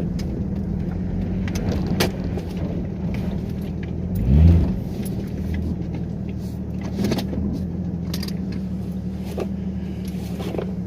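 Jeep Grand Cherokee ZJ's 4.0 straight-six with its new exhaust, heard from inside the cabin with the windows up while driving: a steady low drone that rises briefly in revs about four seconds in. Light clicks and rattles throughout.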